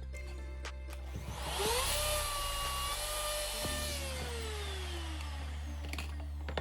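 Electric wood router motor spinning up quickly to full speed with a whine, running for about two seconds, then switched off and winding down with a falling pitch. Background music plays throughout.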